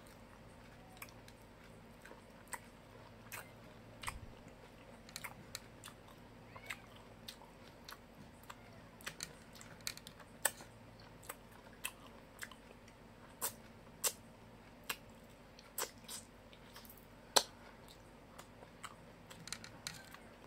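Close-up chewing and crunching of fried chicken and rice with fried anchovies eaten by hand: irregular sharp crackles and mouth clicks, several a second at times.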